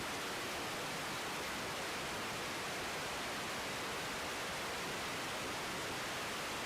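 Steady, even hiss of an air-band radio feed between air traffic control transmissions.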